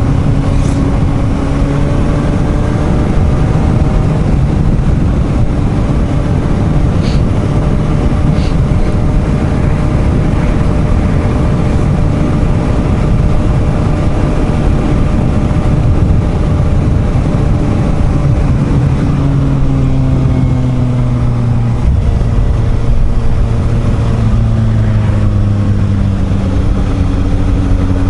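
Suzuki GSR750's inline-four engine running at steady road speed under heavy wind rush on the helmet microphone. In the last third the engine note falls twice as the throttle is eased.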